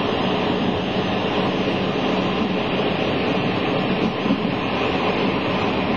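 Steady running noise of a moving passenger train, wheels on the rails, heard from inside a coach.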